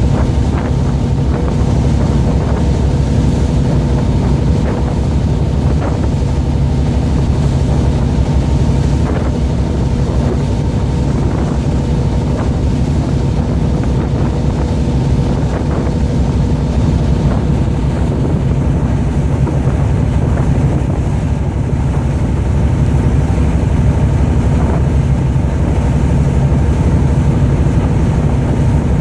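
Fishing boat's engine running steadily, a low droning hum.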